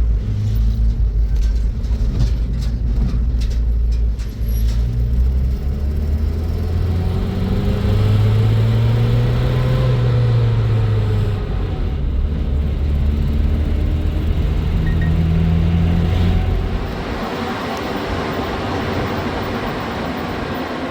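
Motor vehicle driving, its engine note rising and falling as the speed changes, with a few sharp clicks in the first few seconds. About three-quarters of the way through the engine note drops away, leaving a steady road hiss.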